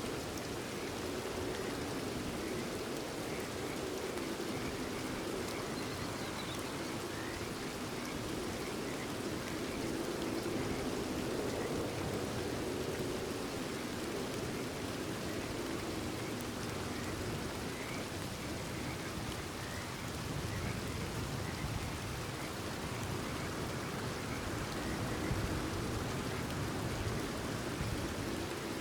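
Steady rain falling, with faint short frog calls scattered through.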